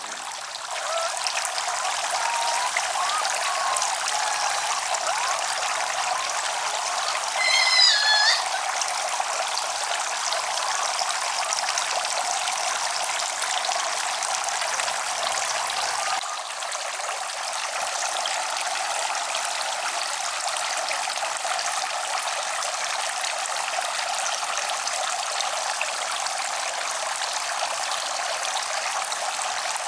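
Steady rushing noise like running water, with a short, high, wavering cry about eight seconds in and a slight change in the noise about halfway through.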